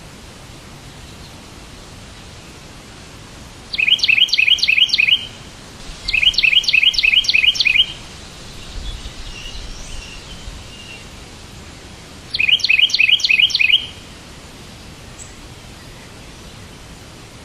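A songbird sings three bursts of rapid, evenly repeated high notes, about five notes a second, each burst lasting a second and a half or so. Fainter chirps fall between the second and third bursts, over a steady background hiss.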